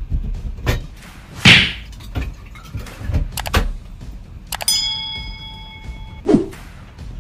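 Hand tools and metal fittings knocking and clattering during plumbing work on a gate valve, with a scrape about a second and a half in. About four and a half seconds in, a metal part is struck and rings for about a second, followed by a thud near the end.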